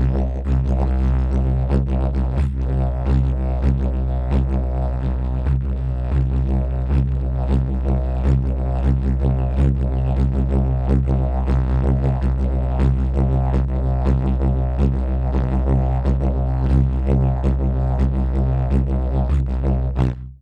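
Didgeridoo playing an unbroken low drone with rhythmic pulsing articulation several times a second; it cuts off suddenly near the end.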